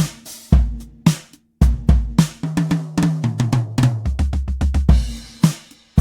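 Sampled drum kit from the EZdrummer 3 plugin playing a groove of kick, snare and hi-hat, with a fill down the toms from high to low in the middle, leading into a cymbal crash that rings and fades near the end.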